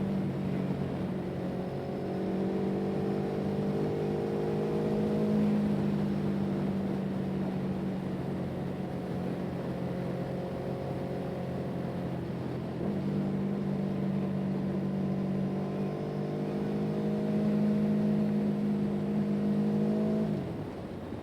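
An engine running at a steady speed, its pitch falling as it slows near the end.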